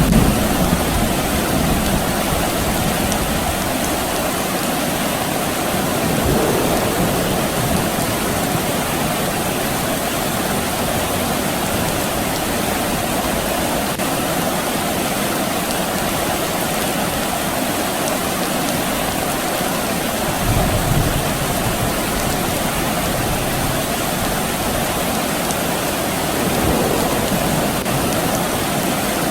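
Steady soft rain falling, with a few brief low rumbles rising out of it near the start, about six seconds in, around twenty-one seconds and near the end.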